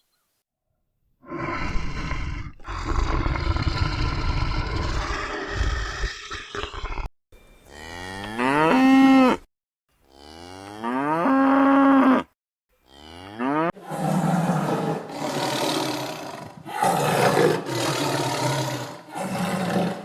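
A deep, rough animal roar, then a cow mooing twice, each moo rising and then holding steady, then a run of shorter rough roaring calls.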